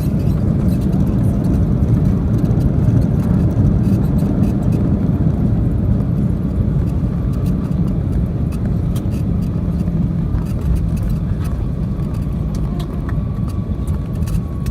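Boeing 737-800 cabin noise during the landing: a loud, steady low rumble from the engines and airflow, with scattered rattling clicks, easing slightly toward the end as the jet slows.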